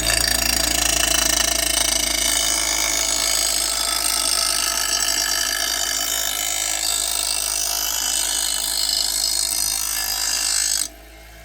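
Small grinder's abrasive wheel grinding the steel cutting edge of a dull Exmark mower blade in one continuous sharpening pass, a loud steady grind. It stops abruptly near the end as the blade comes off the wheel.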